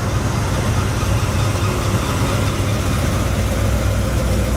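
Car engine idling steadily, a continuous low rumble.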